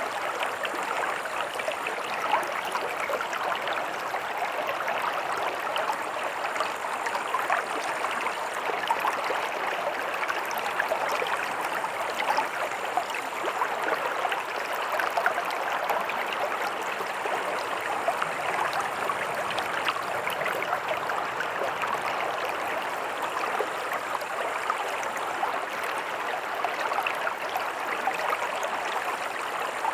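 A stream running steadily: continuous rushing, gurgling water with no pauses.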